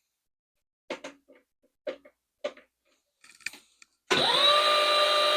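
A few light clicks and taps as the bobbin winder is handled, then about four seconds in the Sailrite Fabricator sewing machine spins up quickly and runs with a steady whine, turning the new bobbin winder for a test wind.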